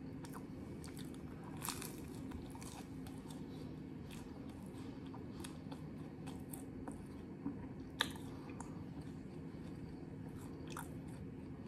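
Close-up chewing of a toasted beef sandwich: soft crunches and small mouth clicks, with one sharp click about eight seconds in, over a faint steady hum.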